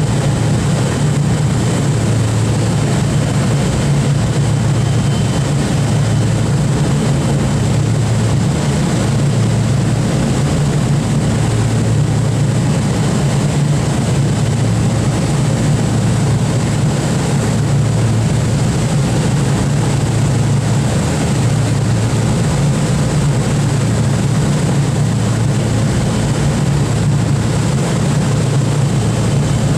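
Four-engine propeller drone of the Boeing B-29 Superfortress's Wright R-3350 radial engines running steadily at constant power, a loud, even, low hum that holds without change.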